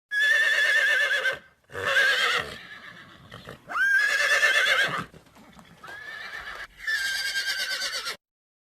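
Horse whinnying: about five neighs in quick succession, each with a high, quavering pitch, the fourth one quieter.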